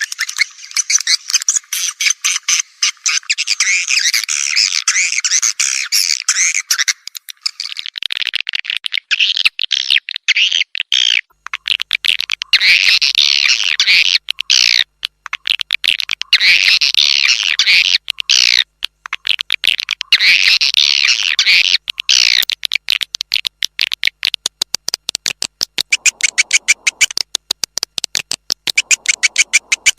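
Recorded swiftlet calls played as a swiftlet-house lure ('calling' sound): dense twittering chirps mixed with rapid clicks. The chirping is continuous at first, then comes in bursts of about two seconds from about twelve seconds in, and turns into a fast, regular run of clicks near the end.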